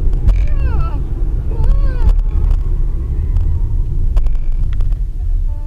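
Steady low rumble of a moving vehicle picked up by a dashcam, with a person's voice making two short sounds in the first two seconds.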